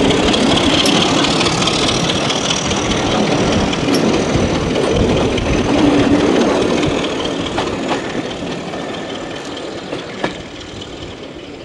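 Diesel train engine running loud and close, then fading away as the train moves off, with a few metallic clanks near the end.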